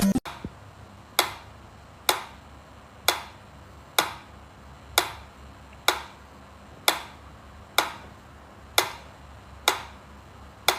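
Steady ticking, about one sharp tick a second, each dying away quickly, over a faint low hum.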